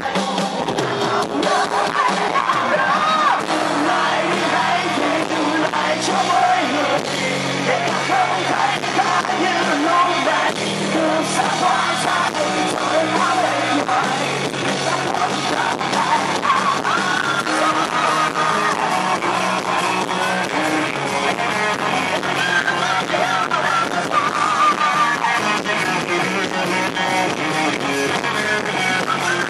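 Rock band playing live, with guitars and sung and yelled vocals over a steady, dense band sound.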